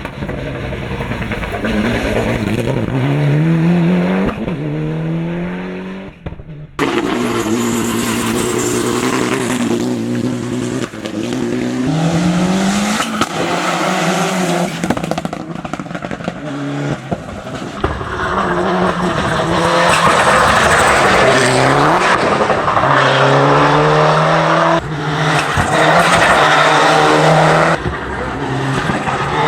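Mitsubishi Lancer Evo VI hill climb prototype's engine accelerating hard through the gears, its pitch rising and then dropping at each upshift, run after run. There is an abrupt break about six and a half seconds in.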